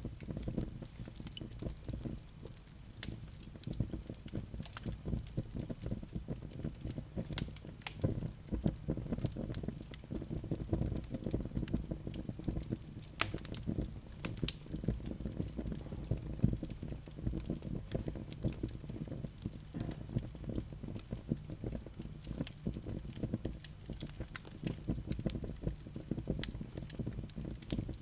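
Wood fire in a fireplace crackling, with many small irregular pops and snaps over the steady low rumble of the flames. A few louder pops stand out around the middle.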